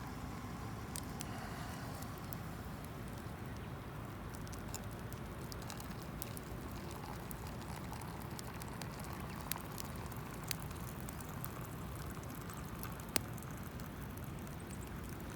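Wood campfire crackling, with scattered sharp pops, over a steady low rumble.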